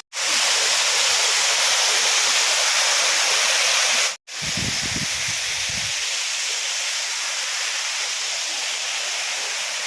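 Steady rushing hiss of a small waterfall's falling water, cut off twice for a split second, at the start and about four seconds in, with a brief low rumble after the second cut.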